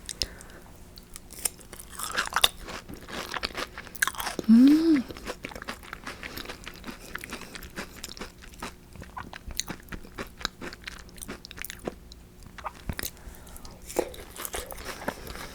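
Close-miked biting and chewing of a crisp-coated cream croquette, with crunchy bites and small wet clicks. About four and a half seconds in comes a short hummed "mm", the loudest sound.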